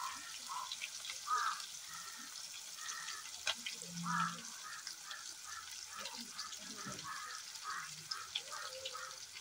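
Chicken pieces frying in hot oil in a kadai: a steady sizzle with small crackles and pops.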